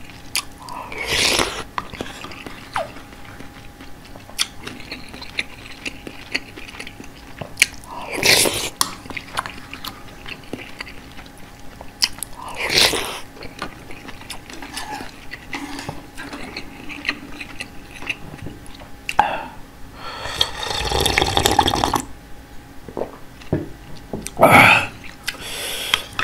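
A person chewing spoonfuls of beef head meat rice soup and spicy cabbage kimchi close to the microphone: wet chewing and small clicks throughout, with several louder bursts of biting and crunching. The longest burst comes toward the end and lasts about two seconds.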